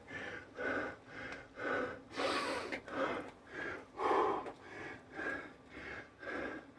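A man breathing hard and fast, about two heavy breaths a second: winded from doing Navy SEAL burpees.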